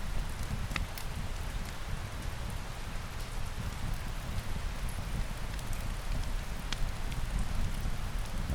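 Steady rain with a low rumble underneath, and a few sharp crackles standing out, one about a second in and another near the end.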